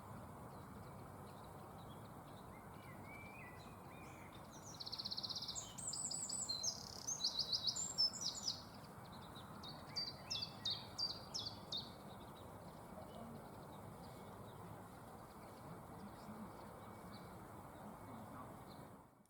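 Wild songbird singing: several quick, high trilled phrases and sharp notes from about five to twelve seconds in, over a faint steady background hiss.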